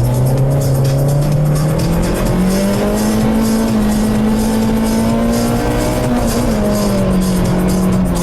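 Tuned Lada (VAZ) car engine running hard under load, its pitch rising steadily over the first few seconds, holding high, then falling back about six and a half seconds in as the revs ease off.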